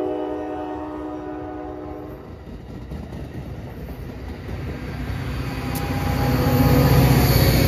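Locomotive air horn holding a chord that cuts off about two seconds in, followed by a train approaching and passing, its rumble and rail noise growing louder toward the end.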